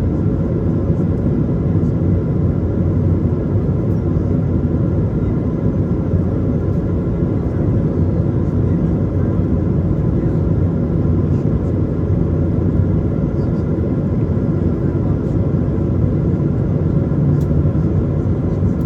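Airbus A220 in flight heard from the cabin: the steady drone of its Pratt & Whitney PW1500G geared turbofans and rushing airflow, with a few faint steady high tones over the rumble.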